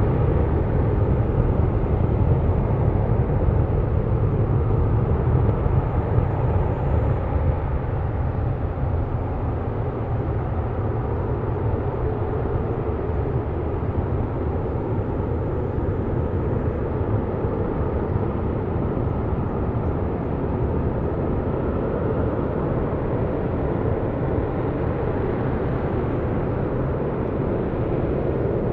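LE-9 liquid-hydrogen/liquid-oxygen rocket engine firing on its test stand, heard from a distance as a steady, deep rumble with a rushing hiss above it.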